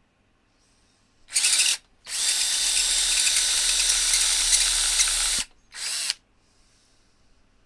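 Power drill running against a steel rivet: a short burst, a steady run of about three seconds, then another short burst. The bit just spins in place and barely cuts into the metal.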